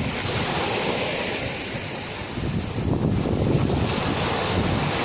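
Sea waves washing in with a steady surf rush, and wind buffeting the microphone.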